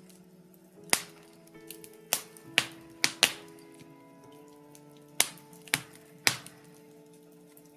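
Wood fire in a fireplace crackling, with sharp irregular pops, about eight loud ones, from the burning birch logs. Soft sustained background music plays underneath.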